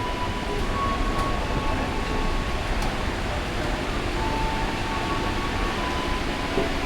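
Train station ambience: the steady noise of a train running, with a few faint, thin, steady whining tones that come and go.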